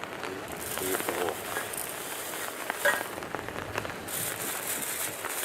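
Uneven hiss and crackle of cooking over a wood fire, with scattered small clicks.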